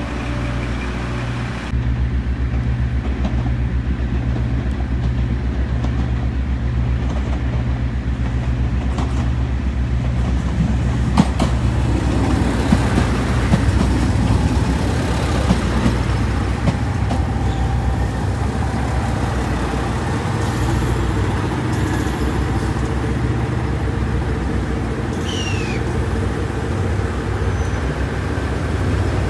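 Diesel railcar engines idling at a station, a low hum with a steady pulse. From about twelve seconds in, a JR Shikoku 2700 series limited-express diesel train pulls in alongside, its wheels and engines rumbling, and a brief falling brake squeal comes as it slows to a stop.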